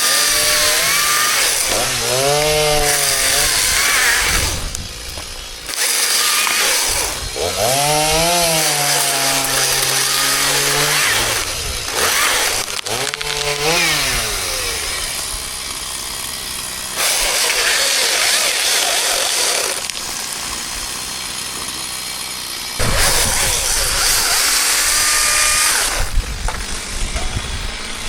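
Chainsaw running and cutting wood, revving up and falling back several times, with steadier stretches in between.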